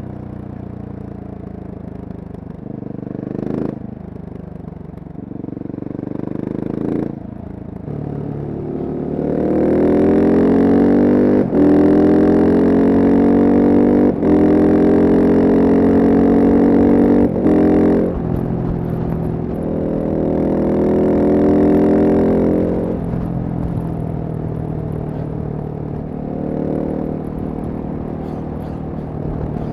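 Husqvarna single-cylinder supermoto engine pulling hard through the gears, its pitch climbing with a brief break at each quick upshift. It then eases off, pulls again, and gives a couple of shorter bursts of throttle near the end.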